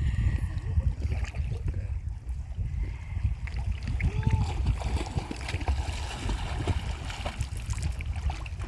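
Kayak paddle strokes splashing in moving river water, over a steady low rumble.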